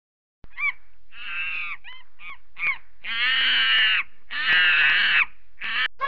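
Ring-tailed lemurs calling: a quick run of short calls, then two longer, louder wavering calls, and a third starting near the end.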